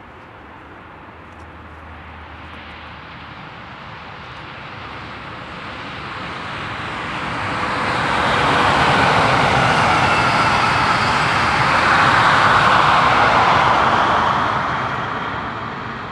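Deutsche Bahn class 111 electric locomotive hauling a rake of regional passenger coaches past. Rumble and wheel-on-rail noise build steadily, are loudest for several seconds as the train goes by, then fade as it recedes.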